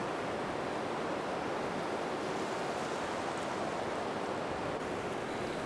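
Steady, even rushing noise with no animal call in it, like surf or wind.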